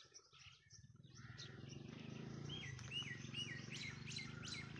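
Wild birds chirping in scrub woodland, with a run of three or four quick, falling whistled notes about halfway through. A steady low rumble comes in about a second in.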